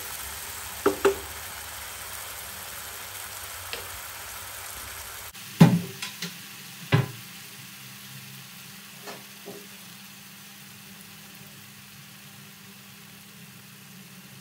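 Ground masala paste frying in oil in a kadhai over a low flame: a steady soft sizzle that eases off slightly, with a few sharp clacks of the wooden spatula against the pan about a second in and again around six to seven seconds in.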